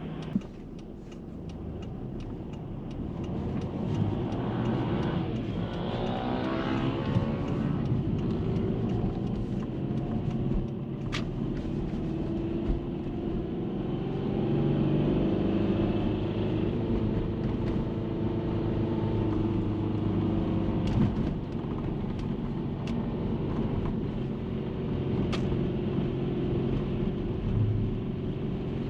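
Subaru EJ20 flat-four engine running, its pitch rising as it is revved a few seconds in and then held. Sharp clicks come through now and then over the engine: the rattle from the engine bay that appears around 3500 rpm, its cause not yet known to the owner.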